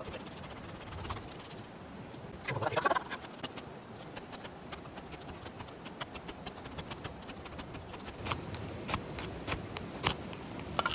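Small kindling fire crackling with irregular sharp snaps as the thin wood catches, with a brief louder rustle or scrape about two and a half seconds in.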